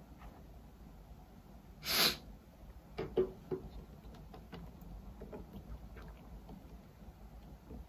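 A short breathy sniff about two seconds in, followed by a few light clicks and taps of makeup being handled.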